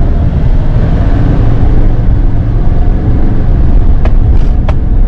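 Duramax 6.6 diesel pickup being driven, a loud steady low rumble of engine and road noise. A couple of short sharp clicks sound near the end.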